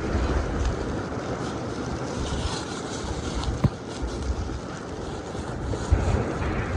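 Blizzard wind buffeting the microphone in uneven low gusts over a steady outdoor rush, with one sharp knock about three and a half seconds in.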